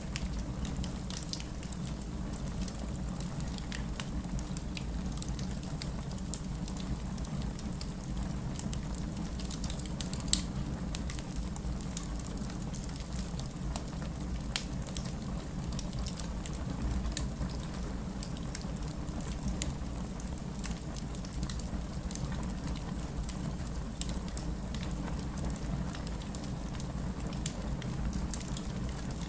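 Wood fire burning steadily with a low rumble and frequent irregular crackles and pops, one sharp pop about a third of the way through.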